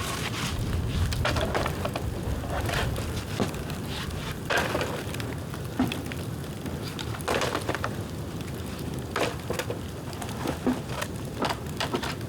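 Bonfire of dry, dead bamboo crackling, with irregular sharp pops and snaps over a steady low rumble.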